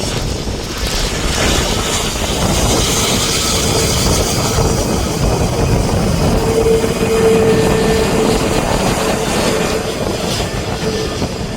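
Airliner's engines running loud and steady as an aircraft moves on or near the runway, with a held whine that peaks in the middle and fades near the end.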